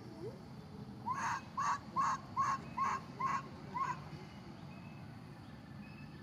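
A bird calling seven times in quick succession, each call a short rise-and-fall note, about two to three calls a second, stopping about four seconds in.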